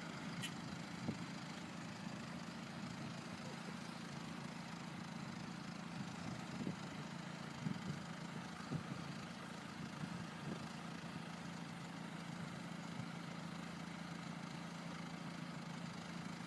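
Tractor engine idling steadily, faint, with a few light knocks scattered through.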